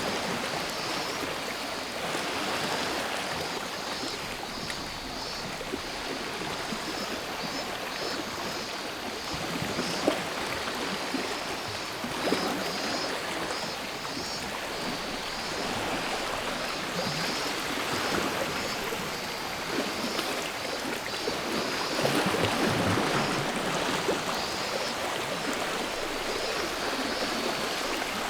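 Sea waves washing ashore, surging and ebbing every several seconds, under a steady high-pitched chorus of cicadas.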